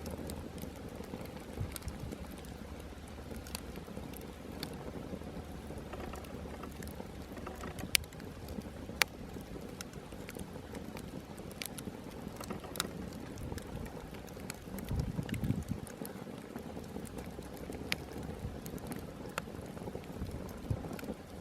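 Small campfire burning with a steady crackling hiss and scattered sharp pops, two louder ones about eight and nine seconds in. A brief low rumble comes about fifteen seconds in.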